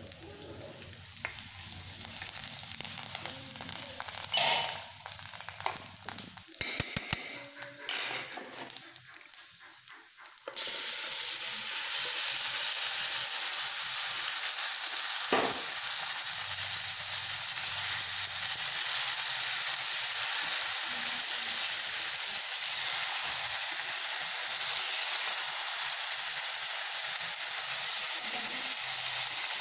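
Shallots, garlic and curry leaves frying in ghee and coconut oil in a clay pot, stirred with a wooden spatula, with a few scrapes and knocks. About ten seconds in, a loud steady sizzle sets in and holds as the boiled chicken is stirred through the hot oil.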